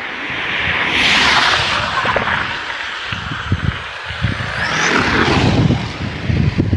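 Redcat Shredder 6S electric RC truck driving over mud and dirt, with two loud surges of throttle, about a second in and again around five seconds, the second with a short rising motor whine. Tyres crackle over the ground in the second half.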